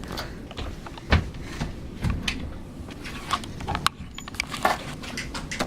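Snow crunching and scraping as a person lies down in it and sweeps arms and legs to make a snow angel: a string of irregular crunches and thumps, the loudest about a second in, over a steady low wind rumble on the microphone.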